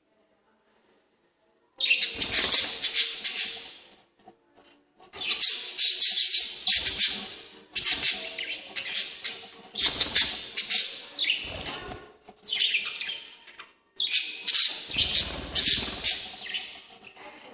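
Lovebirds calling in loud bouts of rapid, shrill chirps, starting about two seconds in and breaking off and resuming several times.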